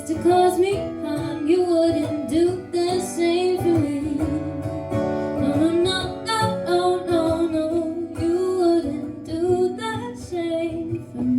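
A woman singing a slow song with held, wavering notes, accompanied by a strummed acoustic guitar.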